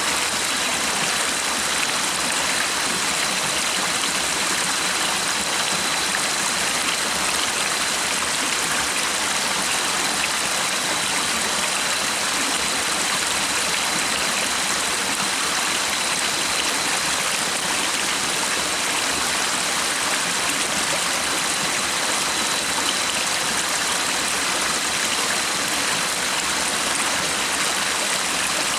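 Stream water running and splashing steadily, an even rushing hiss with no breaks.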